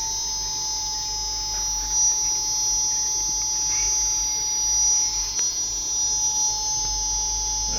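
Steady electrical whine with a low mains hum from a powered-up Lloyd air-conditioner control board on its test bench, its outputs switched on; a faint click about five seconds in.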